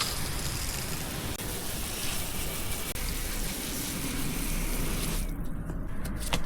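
Water spraying onto a bicycle during a wash, a steady hiss that cuts off about five seconds in, followed by a single click.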